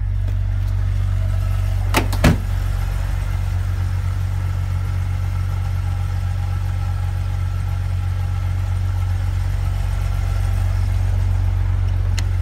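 A 2000 Jeep Cherokee's 4.0-litre straight-six idling steadily, still warming up from a cold start. Two sharp knocks come close together about two seconds in.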